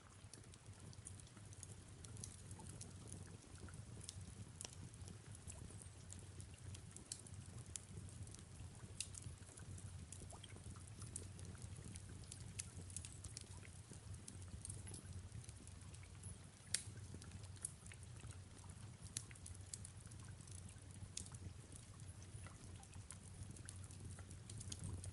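Faint crackling of a wood fire: small irregular pops over a low steady rumble, with one sharper pop about two-thirds of the way through.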